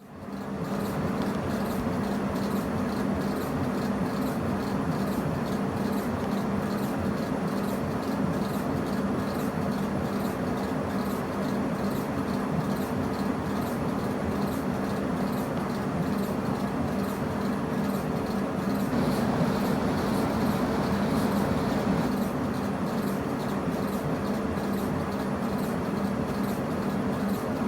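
Laser engraver exhaust fan running steadily, a loud rushing air noise with a low hum. It cuts in abruptly and holds at a constant level.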